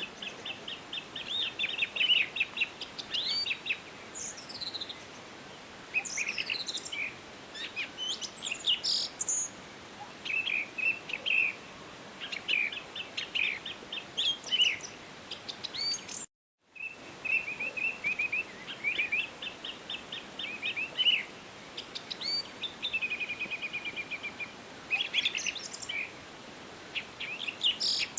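Several songbirds singing and calling in a forest chorus, with many short chirps and quick trilled phrases over a faint steady hiss. Just past halfway the sound drops out completely for about half a second.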